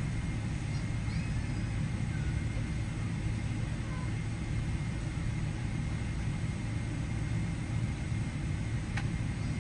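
Steady low rumble of a jet airliner preparing for departure, with one sharp click near the end.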